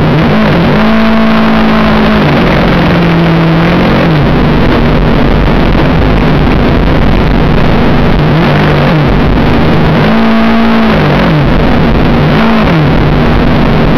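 Motorcycle engine running while riding, its pitch rising and falling several times as the throttle is opened and eased, over a loud steady rush of noise.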